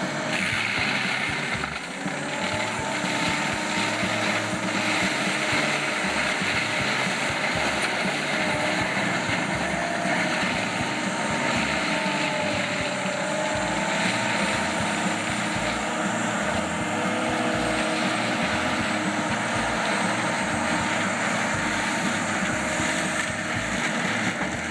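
Heavy diesel machinery running steadily under load, with a wavering whine over the engine noise.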